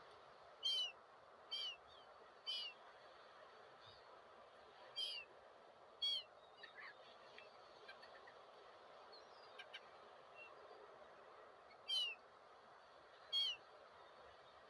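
Gulls calling: seven short, sharp cries that drop in pitch, three close together near the start and the rest spread out, with a few faint chirps in between over a steady background hiss.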